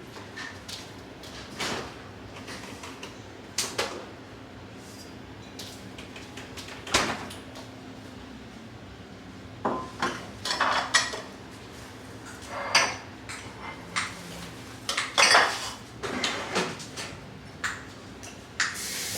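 Dishes and cutlery being handled in a kitchen: scattered, irregular clinks and knocks, busier in the second half, over a faint steady hum.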